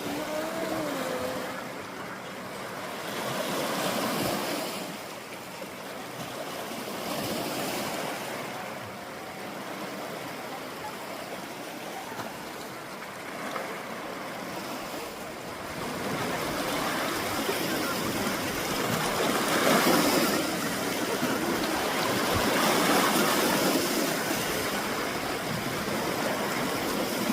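Sea waves breaking and washing against a rocky shore, surging and falling back every few seconds, louder from a little past halfway.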